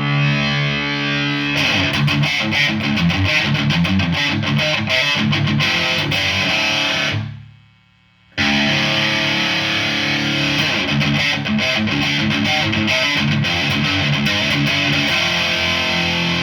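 Electric guitar played through a handmade compressor effects pedal. A held chord gives way to quick picked notes that fade out about seven seconds in, and after a brief gap the playing resumes with sustained chords.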